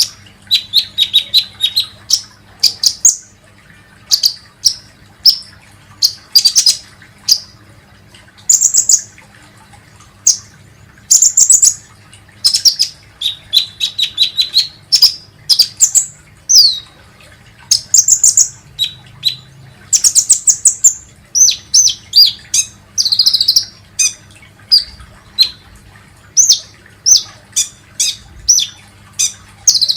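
Kolibri ninja sunbird calling: sharp, high chirps and short rapid trills in quick clusters with brief pauses between, repeated over and over as a lure call.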